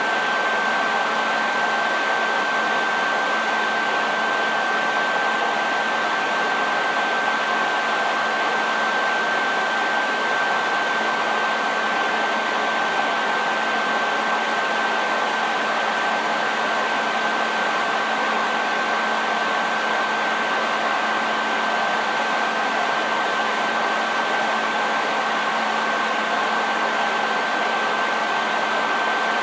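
Hair dryer running steadily: an even rush of air with a thin, steady high whine from its motor and a low hum beneath, unchanging throughout.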